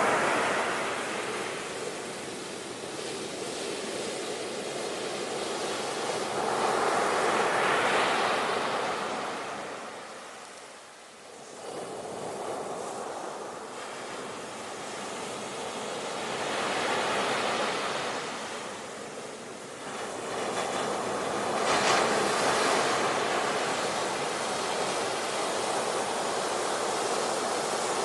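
Ocean waves breaking and washing in, the surf swelling and fading in slow surges several seconds apart, dropping lowest about eleven seconds in.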